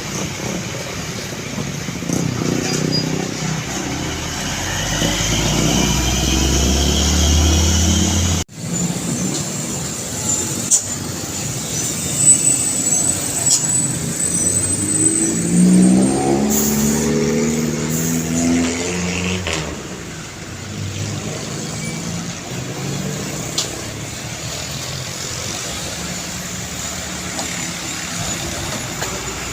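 Heavy diesel trucks on a road. A low engine drone builds, then breaks off suddenly about a third of the way in. Midway another truck's engine rises in pitch as it accelerates, with a few short sharp noises.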